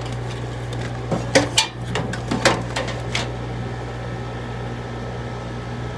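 Window air conditioner running with a steady low hum, and a few sharp clicks and knocks between about one and three seconds in.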